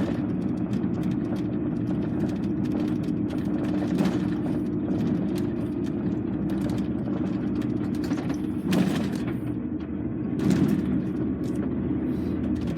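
Heavy goods lorry's diesel engine running steadily as it drives, heard from inside the cab. Three short, louder noises break through, about four, nine and ten seconds in.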